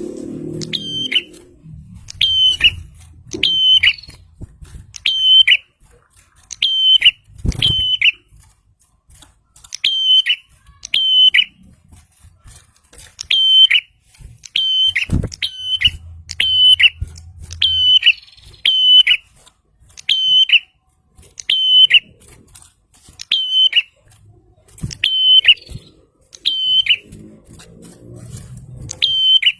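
A prenjak (prinia) calling over and over: loud, sharp, high chirps, each sweeping quickly down onto a brief held note, about one a second with uneven pauses. This is a persistent, excited calling recording of the kind used as a lure for trapping prinias.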